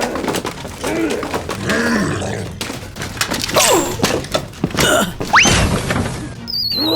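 Repeated knocks and thuds mixed with cartoon-style sound effects: short squeaky voice-like sounds, a quick rising whistle about five seconds in, and near the end a wobbling tone falling in pitch.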